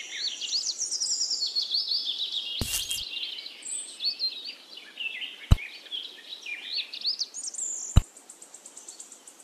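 Small birds chirping, a dense run of quick, high calls, broken by three sharp clicks, one about a quarter of the way in, one past halfway and one near the end.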